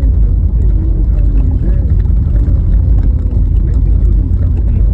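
Car driving on a rough, snow-covered road: a loud, steady low rumble of tyres and suspension over the uneven surface, with faint wavering tones above it.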